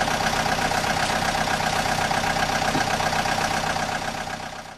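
Excavator's diesel engine running steadily, with a steady high tone over the engine noise. It dips slightly near the end.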